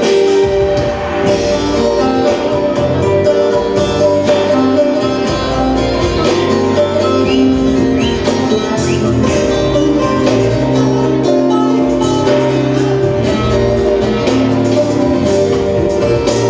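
Instrumental break of a Turkish folk song played live: bağlama (saz) and band backing over a steady percussion beat, without vocals.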